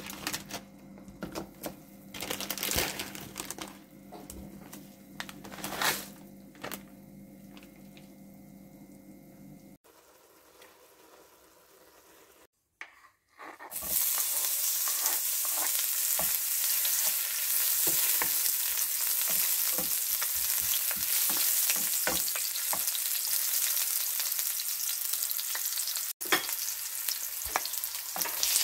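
Water bubbling at a boil in a nonstick wok, with a faint steady hum. After a short quiet gap, about halfway through, onion pieces hit hot oil in the wok and sizzle loudly and evenly, with the scrape and tap of a wooden spatula moving them around.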